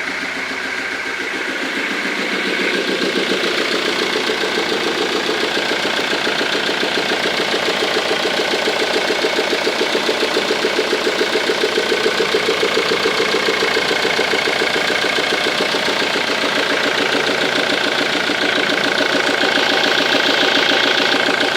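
Ford Mondeo 2.0 TDCi four-cylinder common-rail diesel idling steadily with a rhythmic clacking that comes back through the air intake, growing a little louder in the first few seconds. The owner takes the clacking for an intake valve that closes badly, from carbon build-up or a sticking valve.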